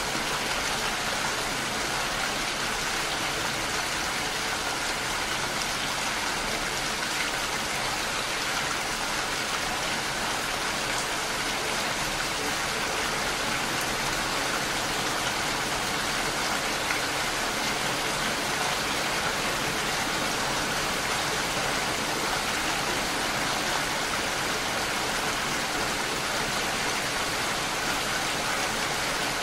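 Steady rain falling, an even, unbroken hiss of many drops with no thunder or other events.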